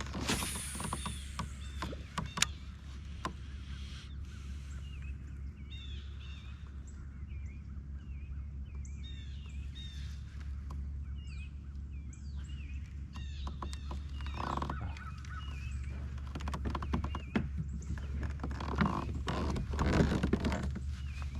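Kayak on the water: low steady rumble with scattered knocks and a few splashes, loudest about two-thirds of the way through and near the end. Small birds chirp repeatedly in the background through the middle.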